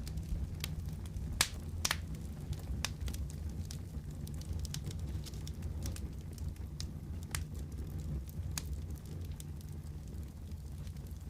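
Wood fire burning in a fireplace: a steady low roar of the flames with scattered sharp crackles and pops, the loudest about a second and a half in.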